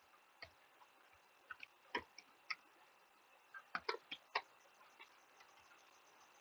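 Computer keyboard keys being typed, faint, irregular clicks with short pauses, in two loose runs in the first and middle parts.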